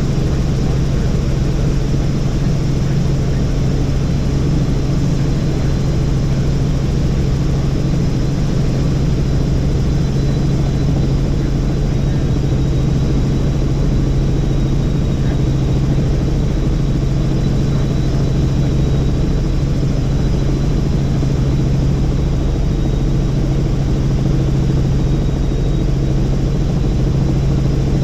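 Helicopter in flight: the steady drone of its rotors and engine, with a strong low hum, unchanging throughout.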